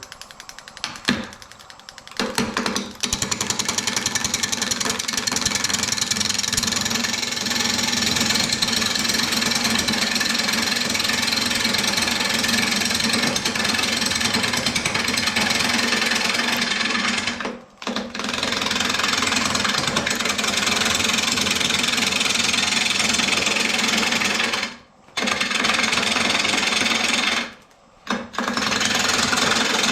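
A turning tool cutting a spinning bark-covered mesquite bowl blank on a wood lathe: a loud steady cutting noise that starts a couple of seconds in and breaks off briefly three times, once near the middle and twice near the end, as the tool is lifted. The bark is tearing off the blank as it is cut.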